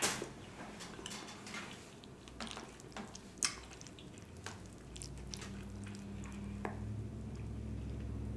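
Close-miked eating sounds: chewing, with short wet clicks and squishes of mouth and fingers working saucy oxtail meat. A low steady hum comes in about five seconds in.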